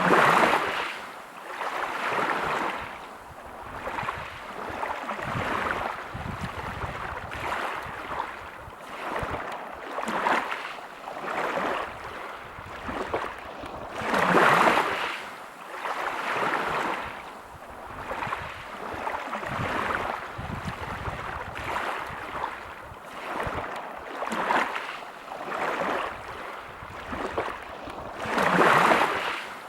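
Waves breaking on a pebble beach: a wash of surf swelling and ebbing every second or two, with bigger waves crashing at the start, about halfway through and near the end.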